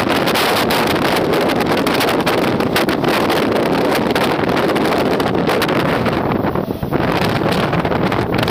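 Wind buffeting the microphone held out of a moving passenger train, over the steady rumble and clatter of train wheels on the rails while another passenger train runs past close alongside. The noise dips briefly about two-thirds of the way in.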